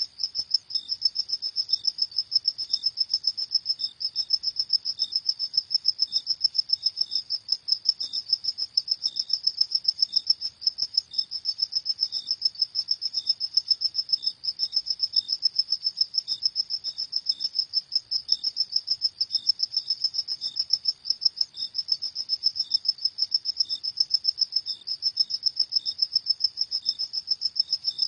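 Crickets chirping at night in a steady, rapid pulsing, with a second, lower-pitched cricket giving slower separate chirps about one to two a second.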